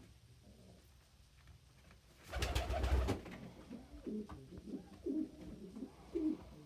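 Domestic pigeons cooing, short low calls repeated through the second half, with a loud brief rustling burst a little after two seconds in.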